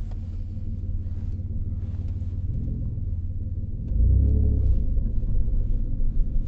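2003 Ford Escape's engine running, heard from inside the cabin, with a steady low rumble that gets louder about four seconds in as it accelerates. This is the test drive after the cylinder 4 misfire was worked on.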